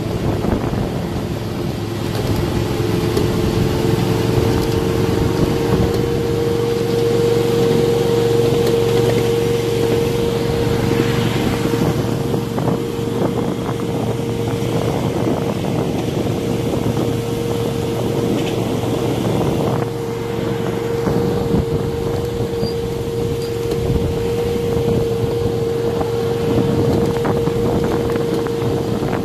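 A 1/8 scale, 7½-inch gauge miniature train underway: a steady whine from the locomotive's drive, with the wheels clicking and rattling over the track.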